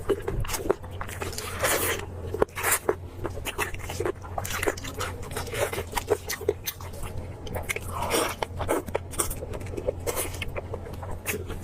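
Close-miked eating sounds: a person biting and chewing meat, with many short irregular clicks and smacks, over a steady low hum.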